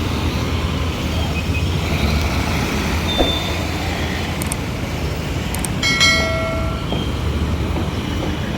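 Town street ambience with a steady low rumble of road noise. There is a short click a little past three seconds, and a brief pitched tone with overtones, about a second long, starts about six seconds in.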